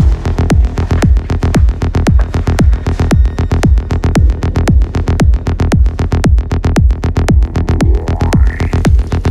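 Psychill downtempo electronic music: a steady kick drum pulse under fast, even clicking percussion, with a falling synth sweep near the end.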